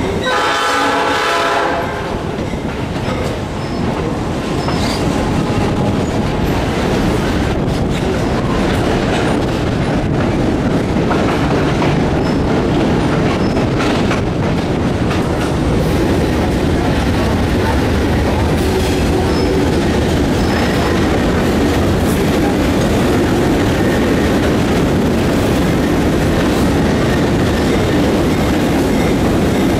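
Passenger train rolling along, heard from an open-air car: a steady rumble of wheels on the rails with scattered clicks over the rail joints. The locomotive's horn is sounding at the start and cuts off about two seconds in.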